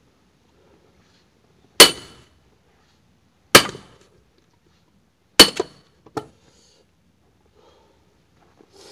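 Axe chopping firewood: three sharp strikes into wood a little under two seconds apart, the third followed by two lighter knocks.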